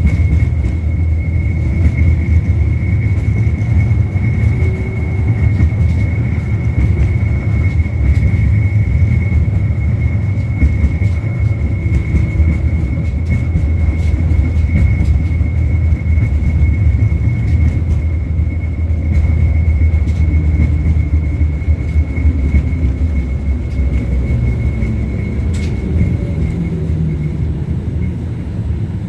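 LVS-86K articulated tram running along the line, heard from on board: a steady low rumble of wheels on rails, with a thin high whine that fades out near the end.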